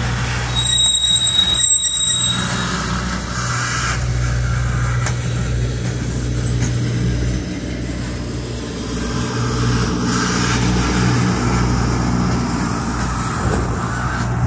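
Freight train of refrigerated boxcars rolling slowly past, a steady rumble of cars on the rails with the constant hum of the cars' diesel refrigeration units running. A brief high-pitched squeal sounds about a second in.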